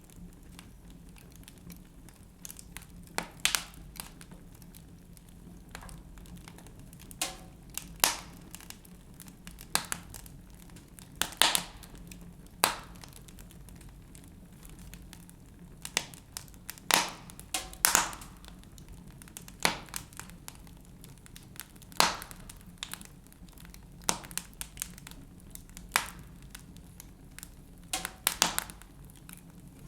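Wood fire in a fireplace crackling, with sharp, irregular pops about every second or two over a low, steady rumble.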